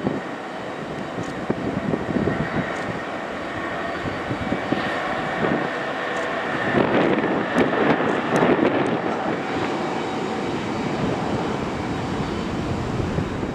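Jet airliner engines running with a steady rushing noise and a faint whine, with wind buffeting the microphone in gusts, strongest about halfway through.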